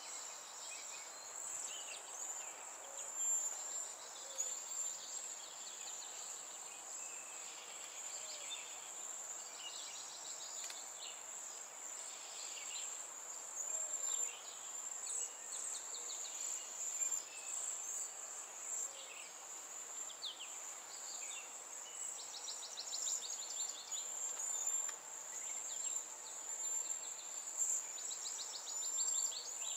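Wild songbirds chirping and singing, with quick trills that come more often toward the end, over a steady high-pitched insect drone.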